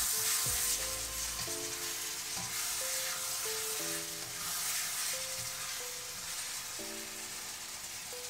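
Chicken pieces sizzling and frying in a hot wok, turned over with a spatula, over soft background music.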